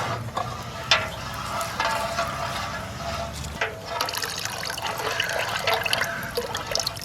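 Liquid pouring and splashing into a container, with a few scattered knocks.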